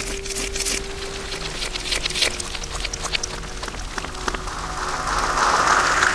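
Slime being squished and worked close to the microphone, heavily distorted: a dense run of wet crackles and pops, with a faint steady tone underneath. The crackling swells near the end.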